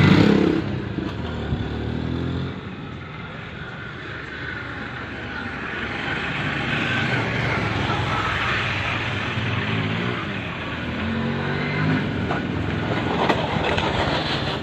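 Motorcycle engine running, fitted with a water-based fuel-saving device. It revs up and eases off a couple of times, growing louder from about four seconds in and again near the end.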